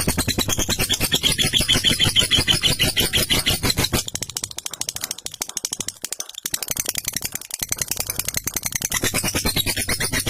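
Lovebird's long 'ngekek' chatter: a very fast, unbroken run of sharp repeated notes, quieter for a few seconds in the middle.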